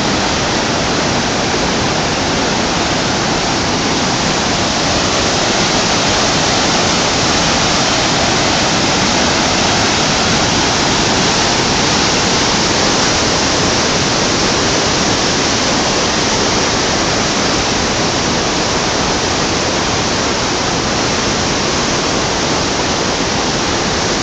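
Waterfall on a river: a loud, steady rush of falling water that does not let up.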